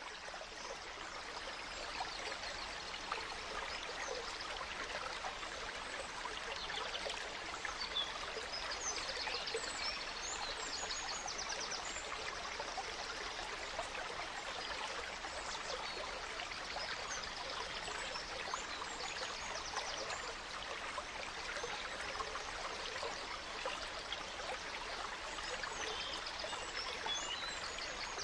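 A gentle stream babbling steadily, fading in at the start. Forest songbirds chirp and trill high above the water now and then, most busily about a third of the way in and again near the end.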